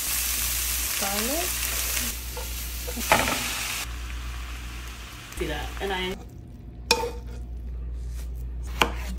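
Diced vegetables and callaloo greens sizzling in oil in a frying pan as they are stirred. About six seconds in the sizzle stops and two sharp clicks follow, a knife against a wooden cutting board.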